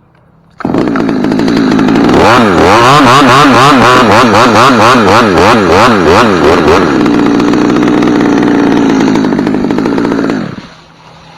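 Chainsaw run up to full throttle, cutting through a poplar limb. Its pitch swings rapidly up and down under the load of the cut for a few seconds, then steadies before the throttle is released near the end.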